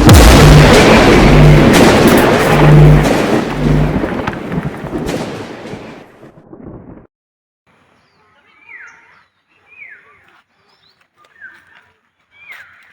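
A loud rumbling noise with a low pulsing beat that fades away over several seconds and cuts off. After a short gap, an animal gives short calls that fall in pitch, about one a second.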